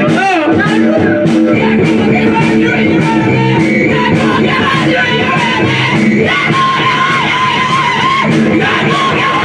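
Live rock band playing, with a steady drum beat under guitar and a singer who sings and yells in long, gliding notes.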